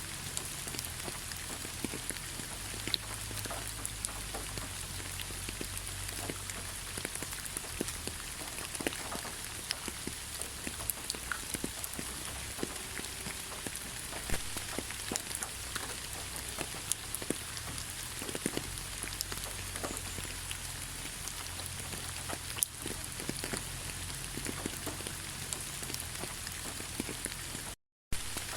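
Steady rain falling in a pine forest, with many individual drops ticking close by over an even hiss. The sound cuts out for a split second near the end.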